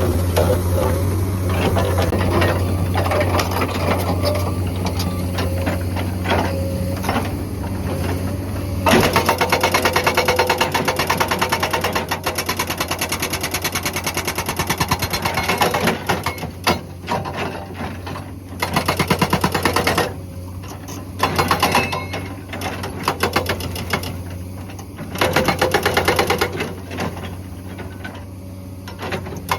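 Hydraulic rock breaker on a Komatsu excavator hammering rock with rapid repeated blows, starting about a third of the way in and continuing in several bursts. Between bursts the excavator's diesel engine runs steadily.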